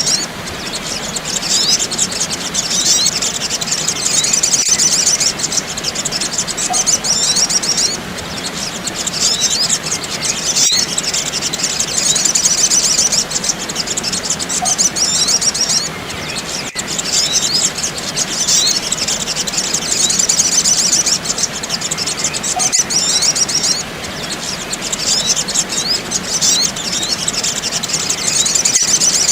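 Recorded sogok ontong birds giving rapid, high-pitched chattering chirps, played as a bird-trapping lure call. The chirps come in long bursts with short breaks about every eight seconds.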